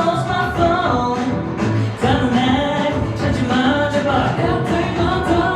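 K-pop song with singing over a backing track with a steady beat.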